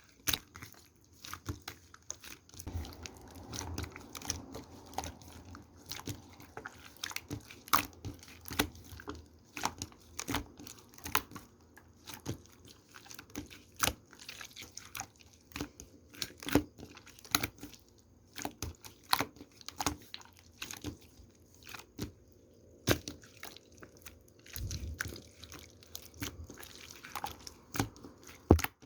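Clear, colourless slime being squeezed and played with by hand, making irregular sharp clicks and pops.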